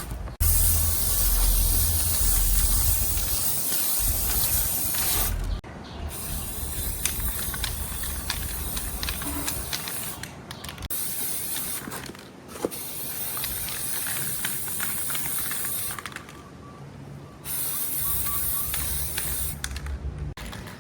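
Air or spray hissing hard from a nozzle in long bursts, cut off briefly several times, over a low rumble.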